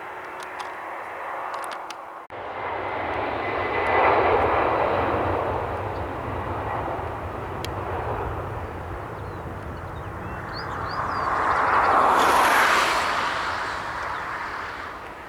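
Jet airliner engines rushing past, the noise swelling to a peak about four seconds in and again around twelve seconds, after an abrupt break about two seconds in.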